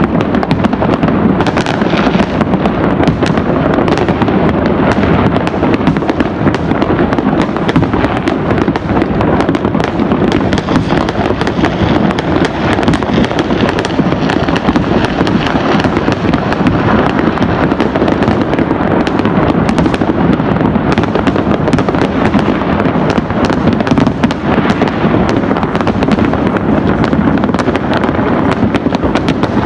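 Fireworks and firecrackers going off continuously all around: a dense, unbroken barrage of bangs and crackles, loud throughout.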